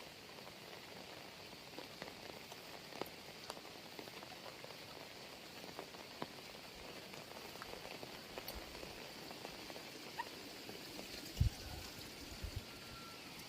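Rain falling: a steady hiss with scattered drops ticking close by. A few low thumps come near the end.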